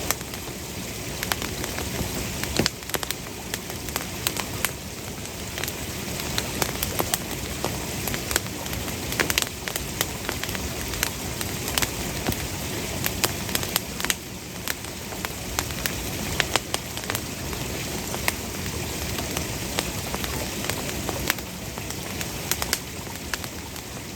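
Wood campfire burning, a steady hiss with irregular sharp crackles and pops.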